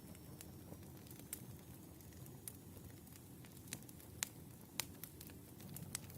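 Burning firewood crackling: sharp, irregular pops over a low, steady rumble of flames, with a couple of louder pops a little after the middle.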